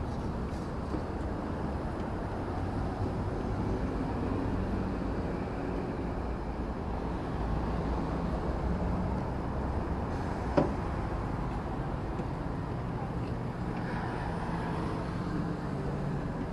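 City street traffic: a steady low rumble of passing cars and other vehicles, with one sharp click about ten and a half seconds in.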